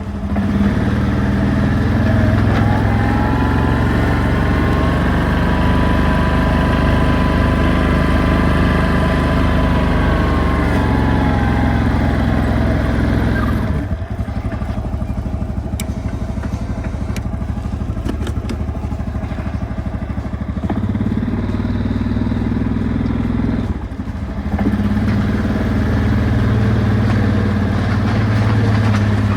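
Engine of a snow-plowing vehicle running under load as it pushes snow. Its revs rise and ease back over several seconds, drop about halfway through, and pick up again near the end, with a few light clattering clicks in between.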